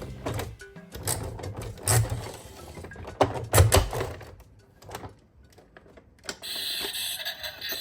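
A series of sharp clicks and knocks, with two louder knocks in the first half, then a short lull and a steady hiss near the end.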